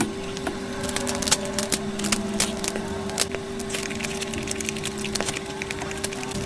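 Close-miked eating sounds: irregular crunching and crackling as food is bitten and chewed, over a steady low hum.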